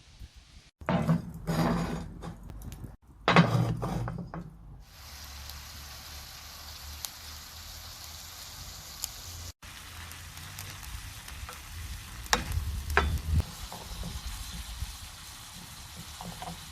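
Food sizzling in a frying pan as it is stirred, with a steady hiss and a few sharp utensil clicks against the pan. The stirring is louder in two short stretches at the start.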